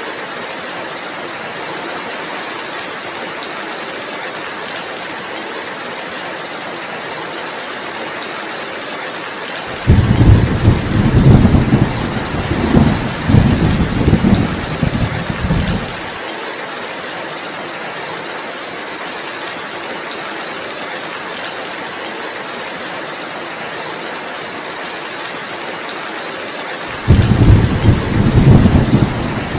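Steady heavy rain, with a loud low rumble of thunder starting suddenly about ten seconds in and lasting about six seconds, and another beginning near the end.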